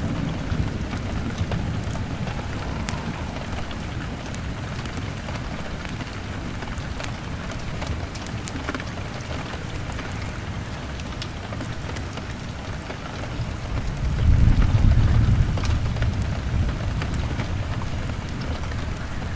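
Steady rain pattering on a window, with scattered small sharp clicks. About three-quarters of the way through, a low rumble of thunder swells up and then eases off.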